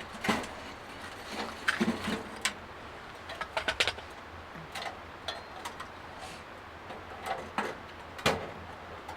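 Gear being handled by hand: a scatter of light clicks and knocks, some in quick runs, over a steady hiss.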